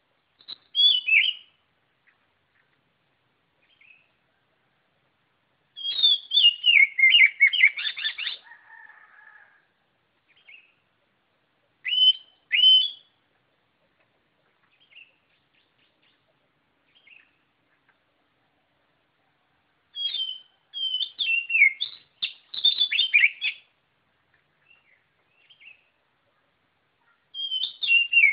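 Oriental magpie-robin (kacer) singing in short bursts of quick, sweeping whistled notes, each phrase a second or two long, with pauses of several seconds between them.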